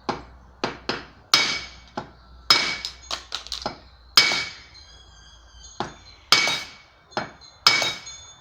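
Hammer blows on the end of a brushcutter's drive shaft, peening it out to form a new lip so the shaft stops slipping inside the transmission. About fifteen sharp strikes come in uneven groups, and the louder ones leave a brief metallic ring.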